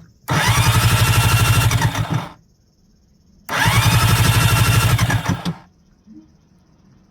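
Yamaha SJ700 jet ski engine being cranked twice by its electric starter, each try about two seconds long with a rising whine and an even, fast chugging. It does not catch, and each attempt stops abruptly.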